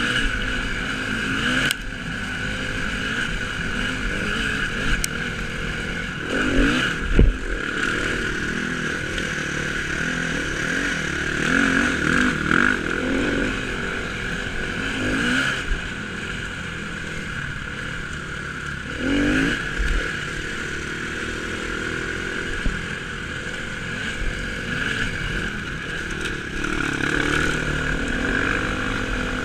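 Dirt bike engine ridden on a motocross track, its revs rising and falling as it accelerates and backs off through the laps. There are a few sharp knocks about seven seconds in.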